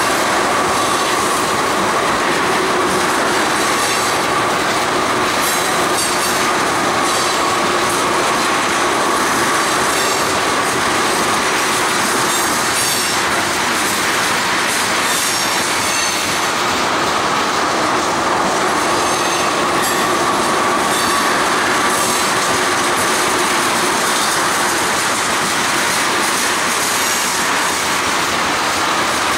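Freight train cars rolling past on the rails, a continuous rumble and rattle with a steady high-pitched wheel squeal running through it.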